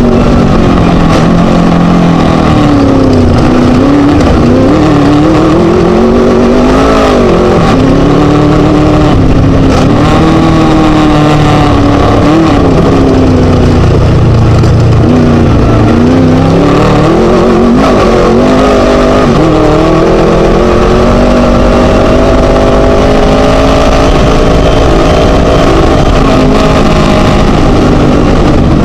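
Class 1 desert race buggy's Scat V4 engine running hard, very loud throughout, its revs rising and falling again and again, then climbing more steadily in the last several seconds.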